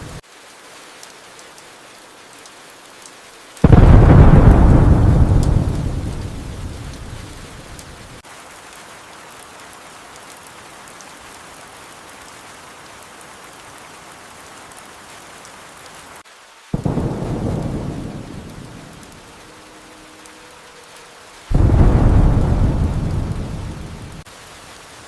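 Steady rain with three thunderclaps: the loudest about four seconds in, rumbling and fading over several seconds, then two weaker ones near the end, each starting suddenly and dying away.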